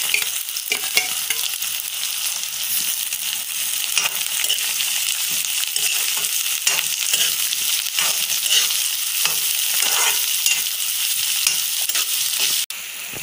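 Diced onions and green chillies sizzling in hot oil in a kadai, stirred with a metal spatula that scrapes and knocks against the pan many times.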